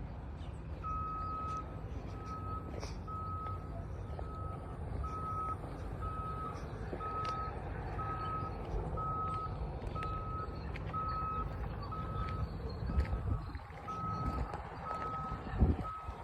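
Vehicle reversing alarm beeping at an even pace, roughly one and a half beeps a second, over a steady low rumble. Two thumps near the end.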